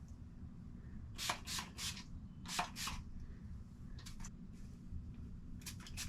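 Pump spray bottle of hair-lightening spray spritzing: several short hissing squirts in quick clusters of two or three, over a low steady hum.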